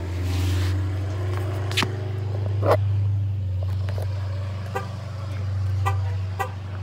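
Chrysler 300 SRT's HEMI V8 running at idle, a steady deep drone that swells and eases a few times. A few short clicks and knocks sound over it.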